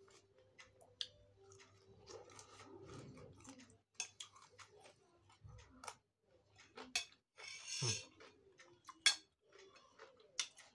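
Close-up eating sounds: someone chewing raw papaya leaves and stems with rujak, giving a string of sharp clicks and small crunches. A longer rustling crunch comes about three quarters of the way through.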